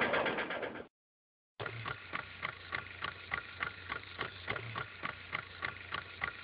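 Sound fading out in the first second, then a short dead silence, then a steady low hum with sharp regular ticks, about three a second.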